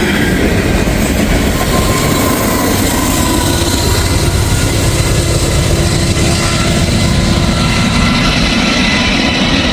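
Freight train passing at close range: a steady, loud rumble and rattle of the rolling cars, with thin, steady whining tones over it.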